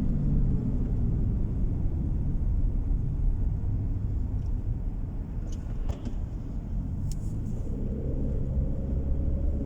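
Car driving, heard from inside the cabin: a steady low rumble of road and engine noise, with a few faint clicks. A faint steady hum joins in near the end.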